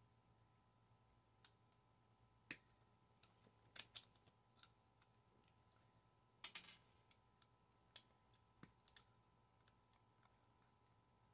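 Scattered small sharp clicks and taps of microwave parts and hand tools being handled, about a dozen irregular clicks against near silence, with a short rattle of several clicks past the middle.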